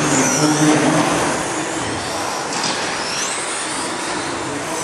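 Radio-control stadium trucks racing, their motors and drivetrains whining high in pitch, rising and falling as they speed up and slow down on the track.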